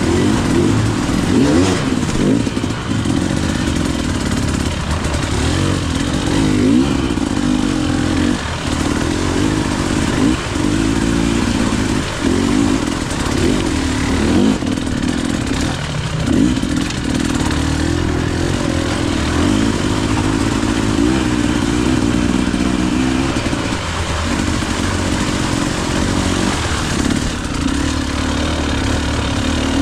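KTM EXC 300 two-stroke single-cylinder enduro bike being ridden off-road. The engine note keeps rising and falling, with short drops every few seconds as the throttle is eased off and opened again.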